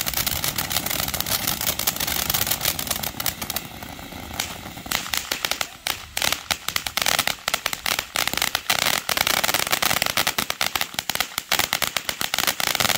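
Two ground fountain fireworks spraying sparks with a steady hiss. From about five seconds in, a dense run of sharp crackles as crackling stars burst around them.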